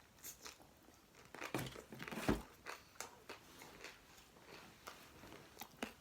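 Close-up eating sounds: a bite into a chickpea curry and mashed potato taco, then chewing with small mouth clicks and smacks. The loudest bite comes about two seconds in.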